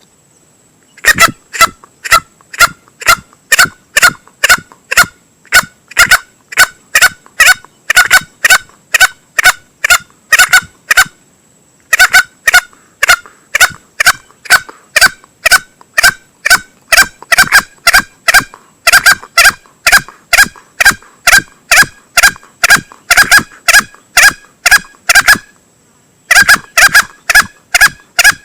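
Male green junglefowl lure calls: a rapid series of short, clucking calls, about two or three a second, in three runs broken by brief pauses. The calls start about a second in and stop for about a second near the middle and again near the end.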